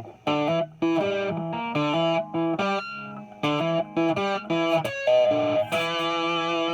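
Epiphone 1959 Les Paul Standard reissue electric guitar on its bridge pickup, played through an amp's distortion: a riff of short picked single notes, then a held note from about six seconds in.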